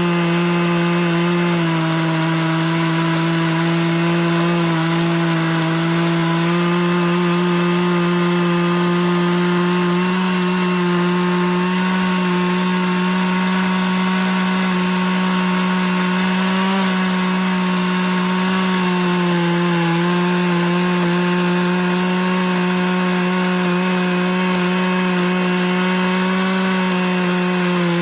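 Chainsaw mill running steadily at high throttle while ripping through a live oak log. The engine pitch sags and recovers slightly a few times as the bar loads up in the hardwood.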